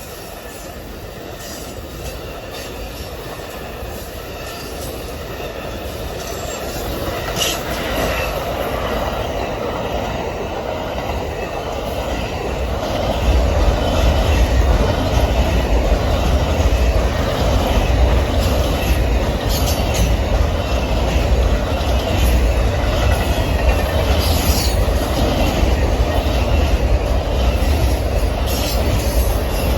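A train approaching and rolling past on the rails. It grows louder over the first dozen seconds, then settles into a steady heavy rumble of wheels on track, with high wheel squeal and scattered clicks of wheels over rail joints.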